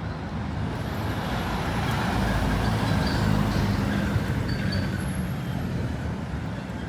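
A heavy road vehicle passing on the street, its low engine rumble swelling to a peak about three seconds in and then fading.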